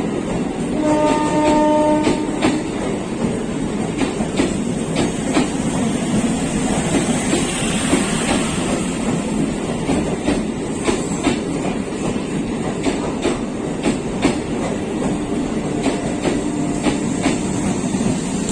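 Passenger train running past at speed, its coach wheels clacking steadily over the rail joints. A horn sounds for about a second and a half about a second in, and a fainter horn tone comes near the end.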